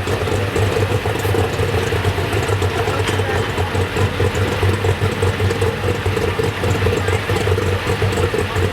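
Super stock pulling tractor's engine idling steadily, with no revving.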